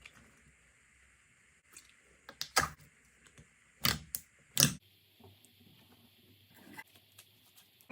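Slime being pressed and squished by hand, giving short sharp pops and clicks as air pockets burst: three loud pops about two and a half, four and four and a half seconds in, with fainter clicks between. After about five seconds only faint soft clicks remain.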